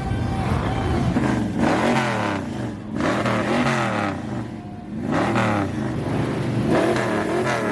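Car engine revving in repeated blips, its pitch rising and falling about four times.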